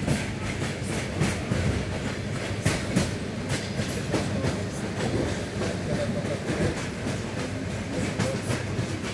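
A train rolling on rails: a steady low rumble with irregular sharp knocks of the wheels over rail joints and points.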